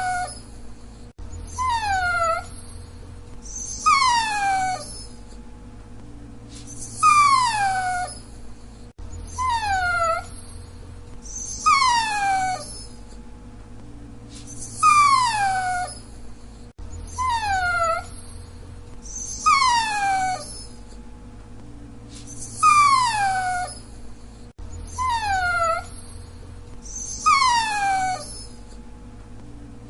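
Dachshund whining: a string of high, pitched whines, each sliding steeply downward, repeating about every two to three seconds.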